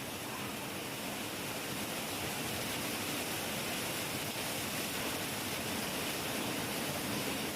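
Heavy rain falling steadily, a dense, even hiss of rain with no thunder.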